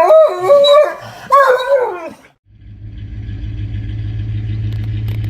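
A dog vocalizing in drawn-out, wavering calls for about two seconds. After a brief gap, a steady low rumble takes over.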